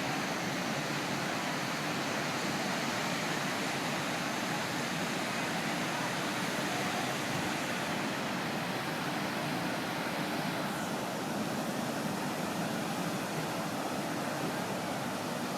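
Steady rushing of water at a boat-coaster water ride, an even noise that hardly changes in level.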